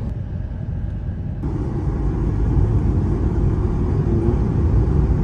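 A car driving, with a steady low rumble of road and engine noise that grows louder about a second and a half in.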